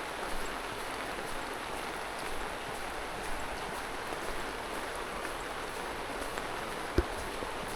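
Steady hiss of falling rain, with a single sharp knock about seven seconds in.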